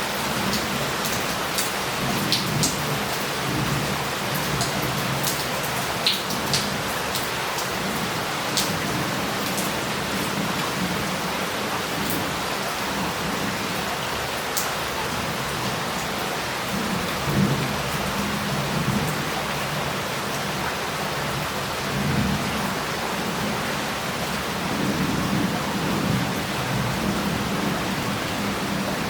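Heavy rain pouring steadily onto roof tiles and street, with sharp drops striking close by, mostly in the first half. Low rolling thunder swells and fades several times underneath, strongest in the second half.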